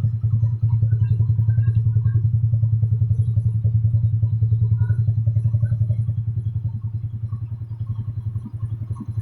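Custom 200cc Yamaha Nouvo scooter engine idling through a PDK aftermarket exhaust, with a steady, fast, even exhaust beat and a slight sag in level near the end.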